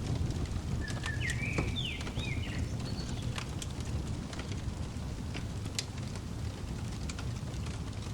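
Fireplace crackling, with sharp irregular pops over a steady low rumble. About a second in, a bird gives a short burst of chirping notes, then one more high note.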